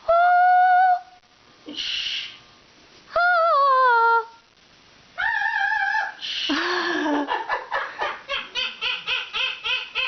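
Timneh African grey parrot calling: a held whistle, a short harsh squawk, a falling, wavering whistle and another held whistle, then a rapid run of laugh-like notes, about five a second, imitating human laughter for the last four seconds.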